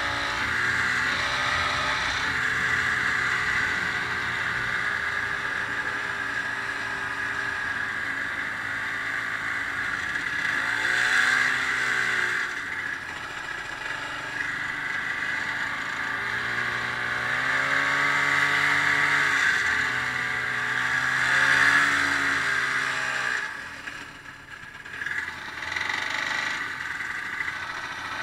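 Ski-Doo snowmobile engine running under way, its revs rising and falling several times as the throttle is worked, easing off briefly near the end before picking up again.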